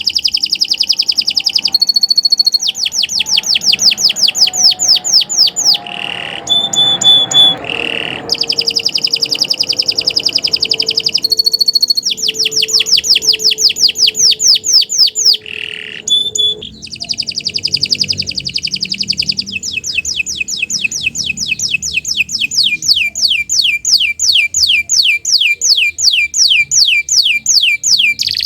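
Domestic canary singing a long, unbroken song of fast rolling trills, each a rapid run of repeated sweeping notes. The trill changes to a new pattern every few seconds, with only brief breaks between them.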